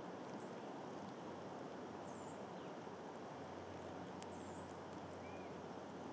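Steady wind noise, with small birds giving short high chirps several times and a single sharp click about four seconds in.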